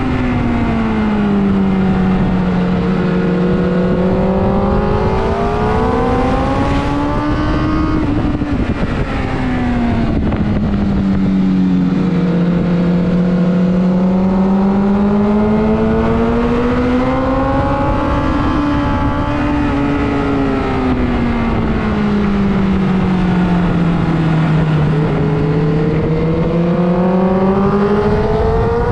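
Motorcycle engine at speed on a race track, its pitch rising and falling in long smooth waves as the bike accelerates and slows, over a steady rushing noise.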